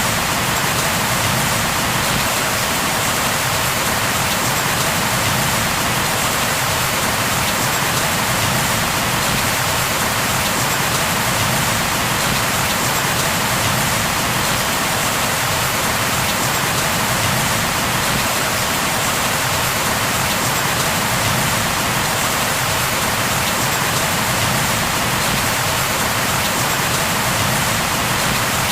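Steady, dense rainfall pattering on a surface, an even hiss with no thunder.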